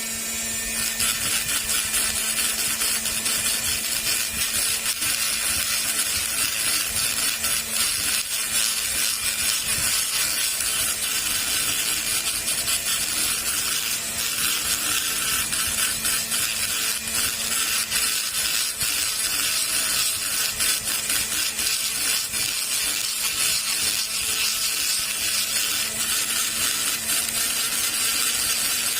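Handheld rotary grinder running steadily at high speed, its bit grinding and polishing the intake and exhaust ports of a motorcycle cylinder head during porting work.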